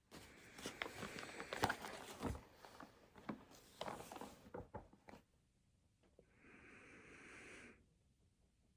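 Desk handling noises while studying: a few seconds of rustling with many small clicks and taps, then a short steady hiss lasting about a second and a half, from about six seconds in.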